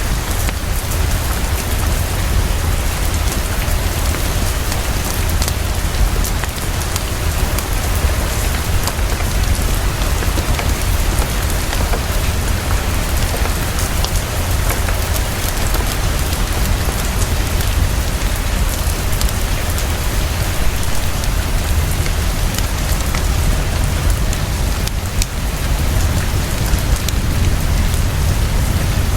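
Fast, steady heavy rainfall over a constant deep rumble, with the soft crackle of a fireplace mixed in as scattered faint ticks.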